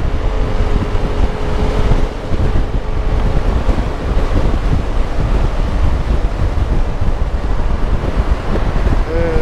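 Heavy wind buffeting the microphone, a loud steady rumble, with a faint steady tone through the first few seconds.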